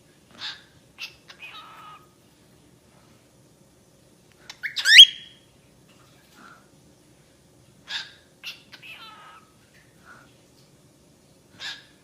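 A pet bird calling in short groups of chirps and squawks, with one loud, sharply rising whistled call about five seconds in.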